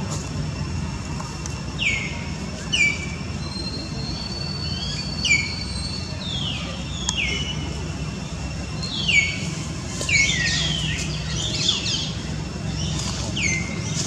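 Birds chirping: short high-pitched calls, each falling in pitch, repeated about once a second, with a burst of overlapping calls about ten seconds in, over a steady low hum.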